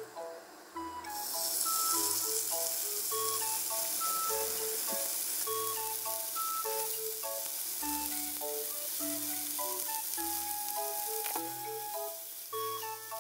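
Chicken rolls sizzling in hot oil in a frying pan. The sizzle starts about a second in as they go into the pan and eases off near the end, under light background music with a plucked melody.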